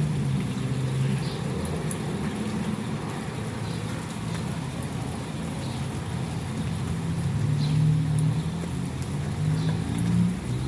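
An engine running, its low hum drifting up and down in pitch.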